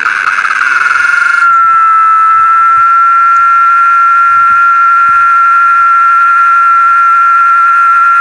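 Cicada singing loud and close: a fast pulsing buzz that merges about a second and a half in into one steady, shrill whine.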